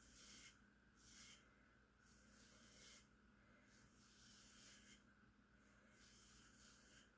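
Faint scraping strokes of a razor shaving the back of the head, about five strokes, each half a second to a second and a half long.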